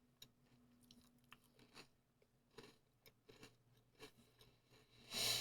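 Faint chewing of a crunchy vanilla cookie: small scattered crunches and clicks at close range, then a short louder hiss near the end.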